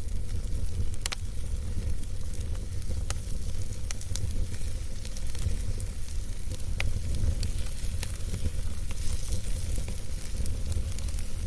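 Campfire burning, with continuous crackling and hissing over a steady low rumble, and a few sharper pops about a second, three seconds and seven seconds in.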